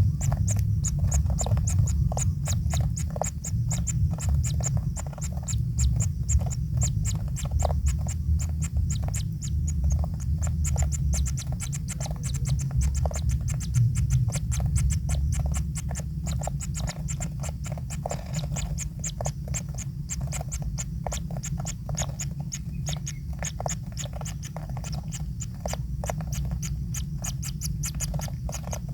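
Kingfisher nestlings making rapid, repeated clicky begging calls in the nest, over a steady low rumble.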